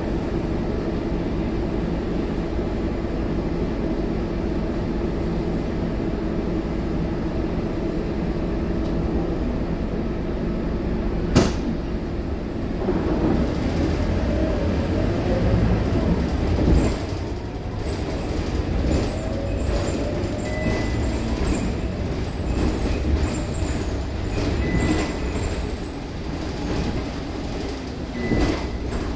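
Scania K230UB city bus's diesel engine running steadily, with a single sharp click about eleven seconds in. The engine note then shifts, rising and dipping in pitch as the bus gets under way and changes gear, with a faint high whine.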